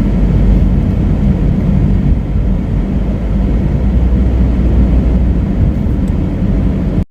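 Car driving along: a steady, loud low rumble of road and engine noise.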